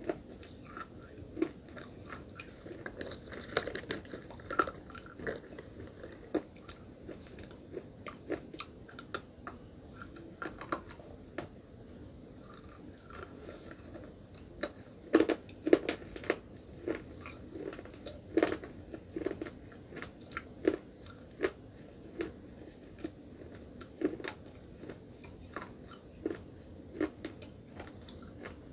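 Brittle slate pencil being bitten and chewed, with sharp, irregular crunches about one or two a second, loudest a little past halfway.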